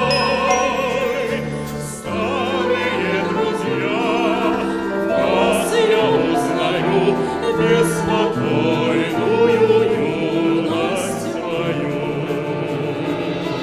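Choir singing a slow, sustained passage with vibrato, with a brief break between phrases about two seconds in.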